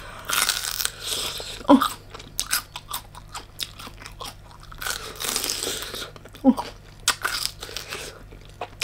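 Close-miked eating sounds: someone biting and chewing crunchy food, with many sharp crackling crunches and denser bursts of chewing.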